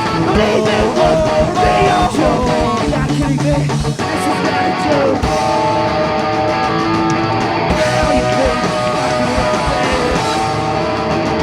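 Live rock band playing an instrumental passage: strummed electric guitar in front, with bass and drums hitting steadily underneath.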